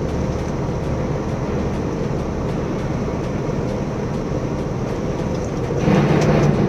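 Vehicle rumble with steady road noise, growing louder about six seconds in.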